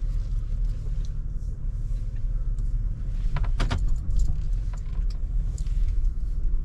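Low rumble of a car moving slowly, heard from inside the cabin, with a quick cluster of small clinks and rattles about three and a half seconds in.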